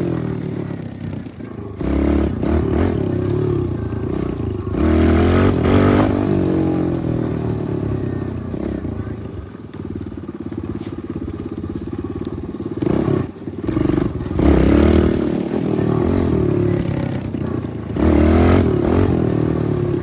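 Pit bike engine under way, revving up in surges about four times and easing off between them, with a brief drop in revs a little past halfway.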